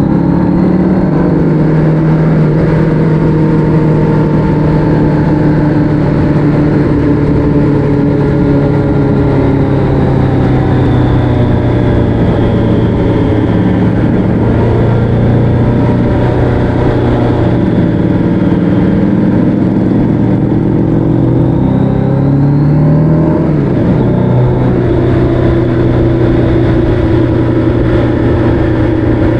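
A vehicle engine running at road speed, its pitch rising and falling gently with the throttle. It dips about three-quarters of the way through, then climbs again.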